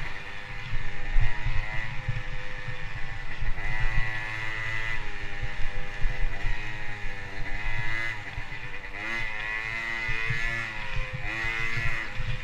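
Motocross bike engine revving up and down as it is ridden, its pitch climbing and dropping every second or two, over a rough, uneven low rumble.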